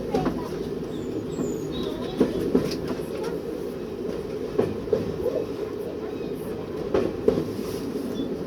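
A train running, heard from inside the driving cab: a steady low rumble, with pairs of sharp clicks as the wheels cross rail joints, a pair about every two to two and a half seconds.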